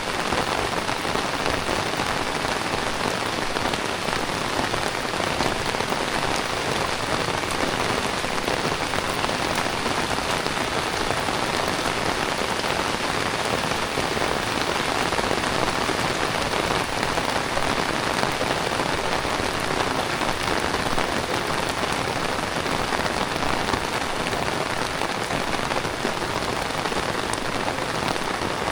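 Heavy tropical rain pouring steadily onto surfaces: a dense, even hiss that holds at the same strength throughout.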